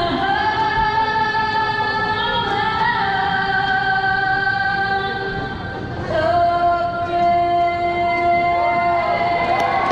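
A woman singing two long, held notes: the first lasts about six seconds and the second begins about six seconds in.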